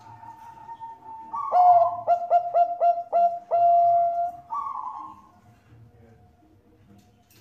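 Zebra dove (Bangkok-bred perkutut) singing its song: a soft held note, then a loud phrase of about five quick clipped coos, a held note and a falling note to close.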